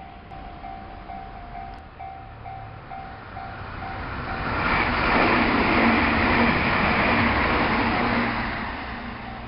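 A Meitetsu Panorama Super electric limited express train passing: its running noise swells in from about four seconds, stays loud for a few seconds and fades near the end. Before the train arrives a repeating electronic bell dings about twice a second, then it is drowned out by the train.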